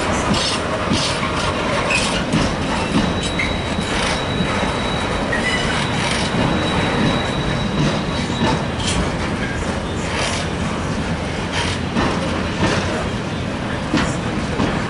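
Freight train of flat container wagons rolling past, its steel wheels clicking over the rail joints in an irregular run of clacks over a steady running noise, with a faint high-pitched wheel squeal through the first half.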